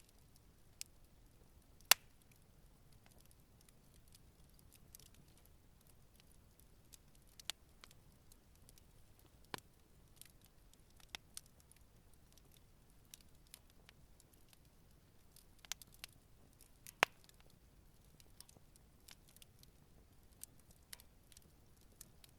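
Wood campfire crackling gently: scattered sharp pops and ticks, with two louder snaps, one about two seconds in and one about three-quarters of the way through, over a faint low hiss.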